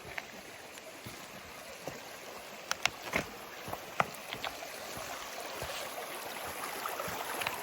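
Creek water running steadily, growing gradually louder, with a few sharp knocks of footsteps on creek stones clustered about three to four seconds in.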